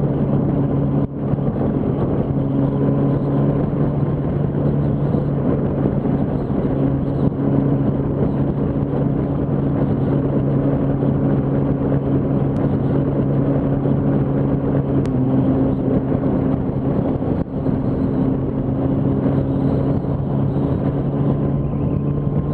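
Yamaha R1 sportbike's inline-four engine running at a steady cruising pace, its note holding level throughout.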